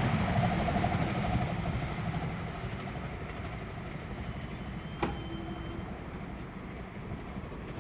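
NSW TrainLink XPT passenger train's rumble fading away as it recedes from the crossing after passing at speed. A single sharp click sounds about five seconds in.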